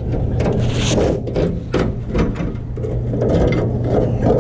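Irregular metallic clatter, knocks and rattles as the steel band blade is handled off the bandsaw mill, over a steady low hum.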